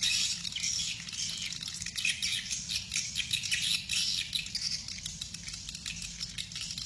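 A flock of swiftlets twittering together, a dense, continuous chatter of high chirps and clicks from many birds at once.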